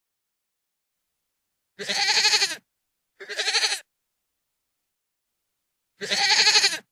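Goat screaming: three loud, wavering bleats, the first two close together about two seconds in and the third near the end.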